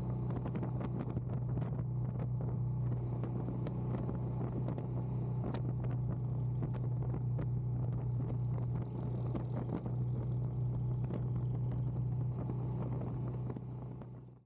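Motorcycle engine running at a steady cruising speed, with wind noise on the microphone.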